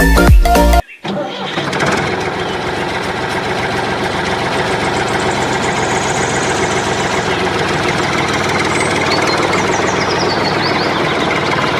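Background music stops abruptly about a second in. A small diesel engine then starts and settles into a steady, fast chugging run.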